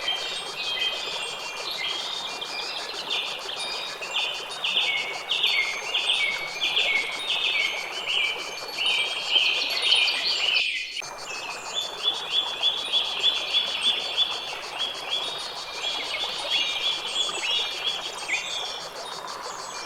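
A songbird repeating short chirping notes, about two to three a second, over a steady background hiss. The sound cuts out for a fraction of a second about halfway through, like an edit in a looped recording.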